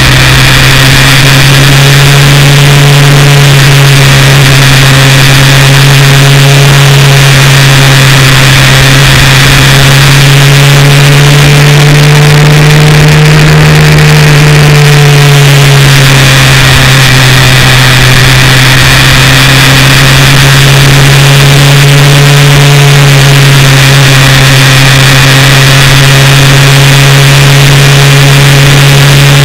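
Benelli TRK 502's parallel-twin engine running at steady cruising revs as the bike rides along, with a hiss of wind over it. The engine note rises a little about twelve seconds in and eases back down a few seconds later.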